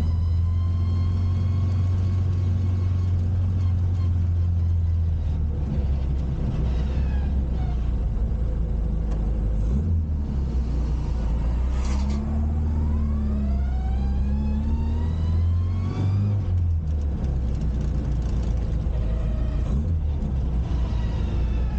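Classic Mini's engine running on the move, its note rising steadily as it accelerates for several seconds past the middle, then dropping off suddenly as it comes off the throttle or changes gear.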